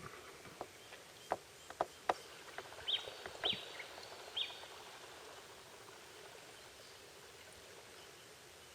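A few sharp knocks, then a bird calling three short, high chirps that sweep downward, over a faint steady outdoor background.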